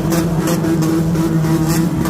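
Car engine held at a steady raised rev, with a couple of short crackles from the exhaust near the start.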